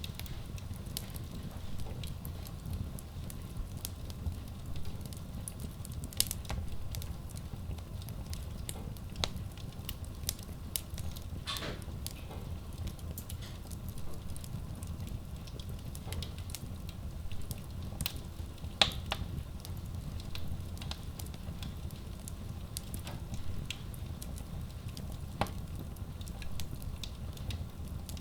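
Wood logs burning in a Kratki Koza K6 stove-fireplace: a steady low rumble of flame with irregular crackles and pops throughout, and a few sharper snaps now and then.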